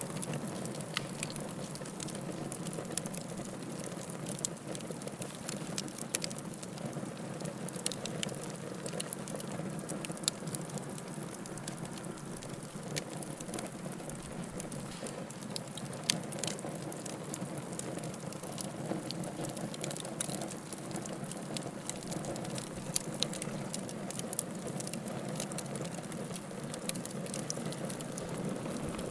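Wood fire burning in a fireplace: a steady low rush of flame with frequent sharp crackles and pops from the burning logs, one louder pop about 16 seconds in.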